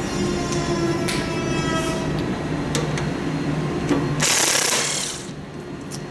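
Steady mechanical hum in a workshop with a few sharp tool clicks, then a loud hiss lasting about a second, about four seconds in, after which it goes quieter.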